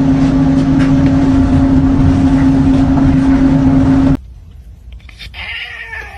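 A loud, steady motor drone holding one constant pitch, cutting off suddenly about four seconds in.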